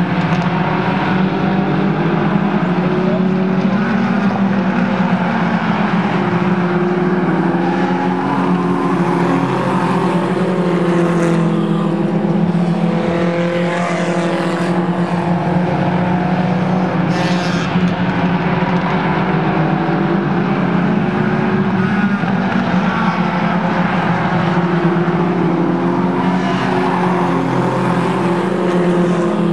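Several race car engines running together during a heat race: a loud, continuous drone whose pitch rises and falls as the cars go round the track.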